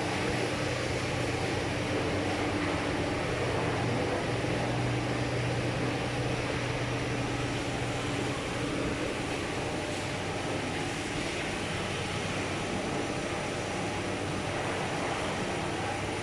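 Steady mechanical noise with a low hum that fades a little about halfway through.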